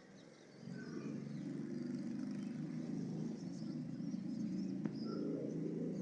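Pigeons cooing in a steady low drone that starts about half a second in, with a few faint, short chirps from small birds.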